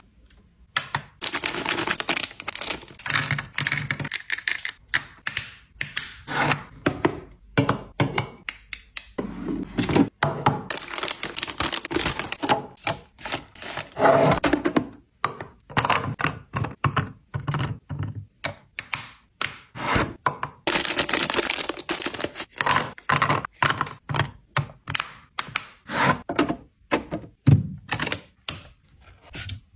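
Fridge restocking: a quick, uneven run of knocks, clicks and taps as plastic bins, containers and food items are handled and set down on shelves.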